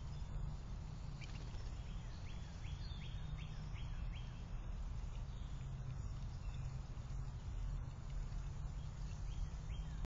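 Outdoor ambience with a steady low rumble. A bird gives a quick run of about six short rising chirps two to four seconds in, and a few more near the end.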